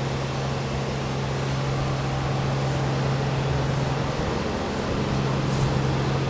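Steady machine hum, a constant low drone over a dull, even noise, unchanging throughout.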